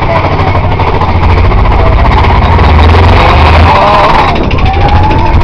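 Roller coaster mine train rumbling along its track at speed, loud and constant, with wind noise on the microphone. A wavering high-pitched tone rises over the rumble about three and a half seconds in.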